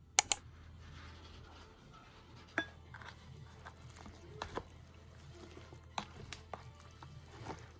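Dishes and utensils clinking and knocking a few times, with a sharp double click at the start, over a low steady hum.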